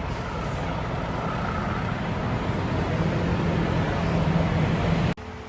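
A diesel semi-truck running, with a dense rumble and hiss, a low hum rising slightly and the level growing a little louder. It cuts off suddenly near the end.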